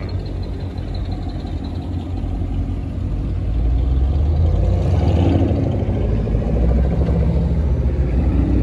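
A car engine running with a steady low rumble; it grows louder about three and a half seconds in, as if revved up or coming closer, and stays at that level.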